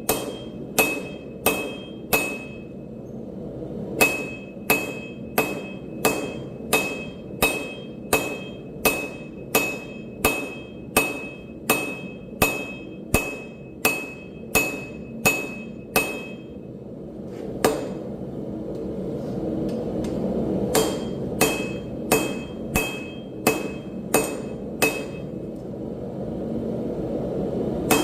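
Hammer blows on an anvil while forging steel, a steady rhythm of about two strikes a second, each with a bright ringing tone. The hammering stops briefly about two seconds in, and again past the middle while a steady rushing noise swells, then starts up again.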